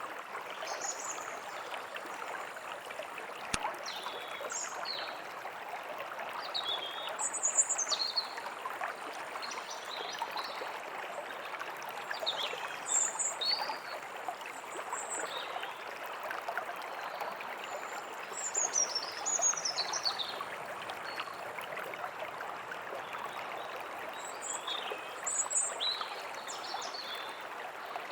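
A forest stream running steadily, with small birds chirping on and off above it in short, high, downward-sweeping calls.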